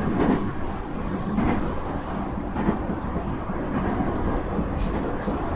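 Nankai 2300 series electric train running, heard from inside the car: a steady rumble of wheels on rail, with a few soft knocks.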